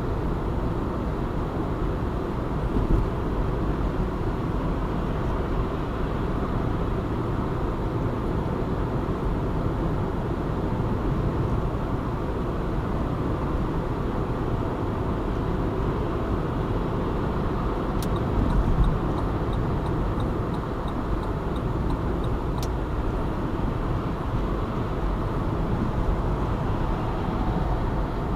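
Steady road and engine noise of a car driving at speed on a city motorway, heard from inside the car. About two thirds of the way through, a faint regular ticking at about three a second runs for about five seconds, beginning and ending with a sharper click.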